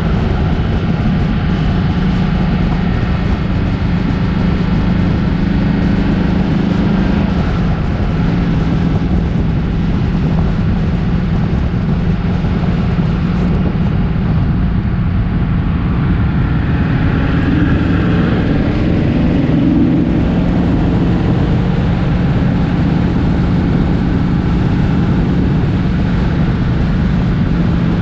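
Car engine running at a steady drone with a constant low hum.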